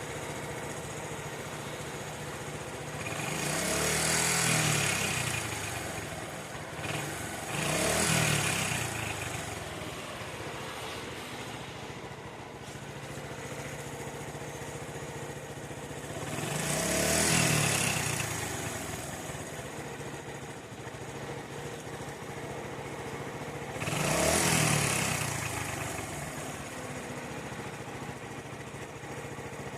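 SYM Wolf motorcycle engine idling, briefly revved four times and falling back to idle each time. The owner reports an abnormal noise from this engine.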